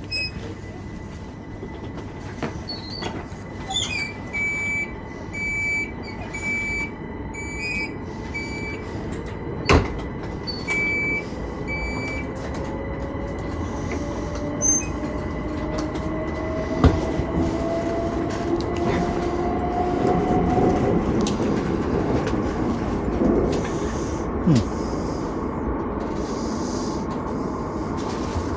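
Heathrow Express electric train departing. A run of evenly spaced high beeps as the doors close, a knock about ten seconds in, then the traction motors' whine rising steadily in pitch over a growing rumble as the train pulls away.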